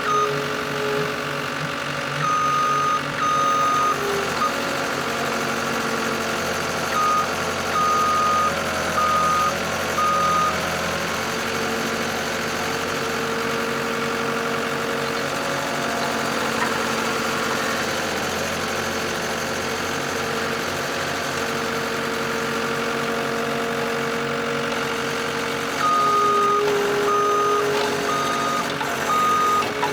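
Skid steer engine running steadily while powering an earth auger drilling post holes, with the machine's backup alarm beeping in stretches during the first ten seconds and again near the end.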